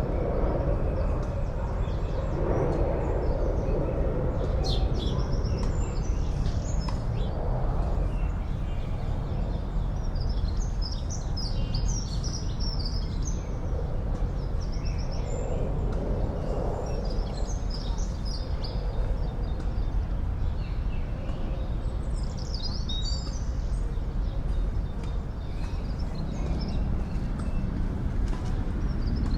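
Urban park ambience: a steady drone of distant city traffic under songbirds chirping and singing in short bursts.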